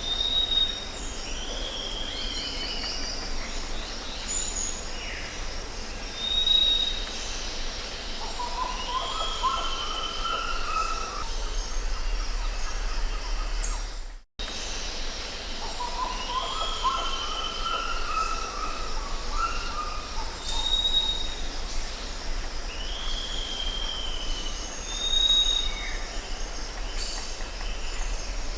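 Jungle ambience: several birds calling, with short clear whistles, slurred falling calls and a rising warbled phrase, over a steady high insect drone and a low rumble. The sound cuts out briefly about halfway through, and the same run of calls then repeats.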